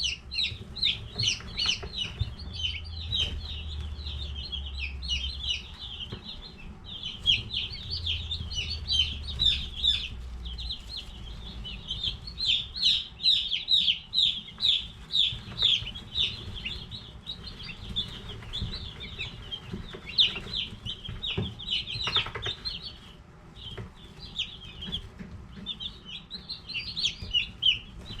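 A crowd of baby Cornish Cross meat chicks peeping nonstop, many short high chirps overlapping.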